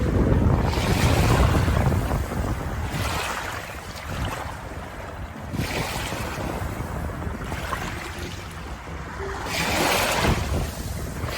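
Ocean waves washing in, the rush swelling and falling back every few seconds.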